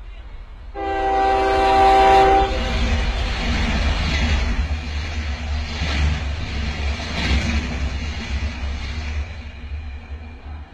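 Train horn blowing for about two seconds, starting about a second in, followed by the train passing close by as a loud rushing rumble that fades near the end.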